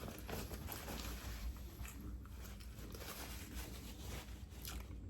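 Faint chewing and soft mouth clicks of a person eating, close to the microphone.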